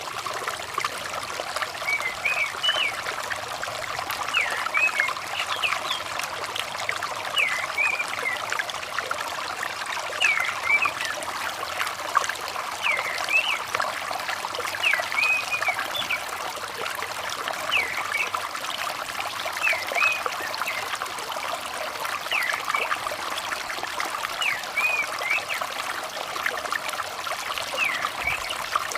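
Steady running water, with short, high, curved chirps of an orange-headed thrush repeated every second or two over it.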